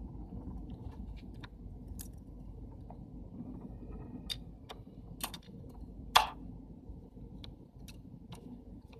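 Scattered small clicks and taps of camera lens parts being handled and fitted together, with one sharper click about six seconds in, over a steady low hum.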